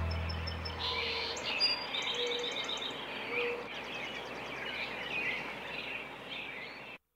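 The song's last low chord fades out in the first second, leaving songbirds chirping over a faint outdoor hiss. The sound cuts off suddenly near the end.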